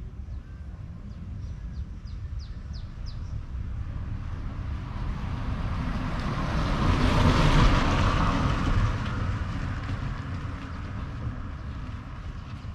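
Wind rumbling on the microphone during a motorbike ride, with a vehicle passing: its rushing noise builds, peaks about halfway through and fades away.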